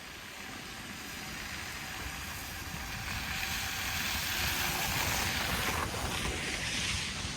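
Outdoor city street noise in snow: a low rumble under a rushing hiss that swells over a few seconds and eases off near the end.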